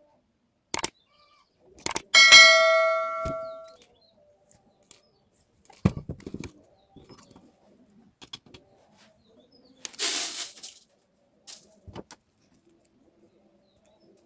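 Scattered clicks and knocks of tools and parts being handled. About two seconds in, a loud metallic clang rings out and dies away over about a second and a half. Near ten seconds there is a brief hissing scrape.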